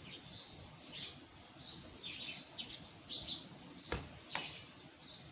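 Small birds chirping, short high chirps repeating about twice a second, with a brief knock about four seconds in.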